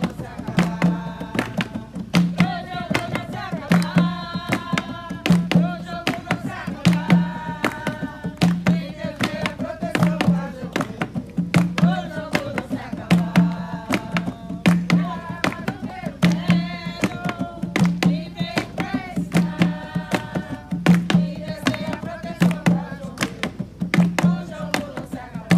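Jongo music: hand drums beating a steady pattern, with a deep drum tone about once a second and sharp slaps between, under voices singing a jongo song.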